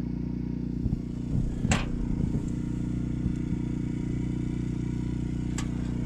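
An engine running steadily at idle, a low even hum, with a sharp click about two seconds in and another near the end.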